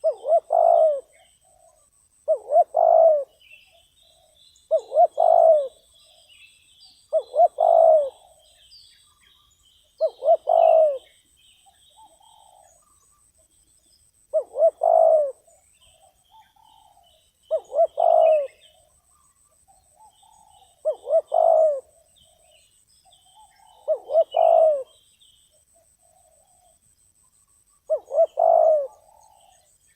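Spotted dove cooing: about ten loud calls, each a short note followed by a longer coo, repeated every two to three seconds. Faint high chirps of small birds come in between.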